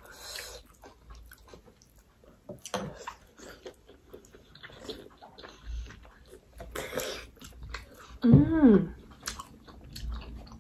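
Close-miked eating: two people chewing and slurping soup-dipped mutton momo dumplings, with scattered short wet smacks and clicks. About eight seconds in, a brief vocal sound rising then falling in pitch.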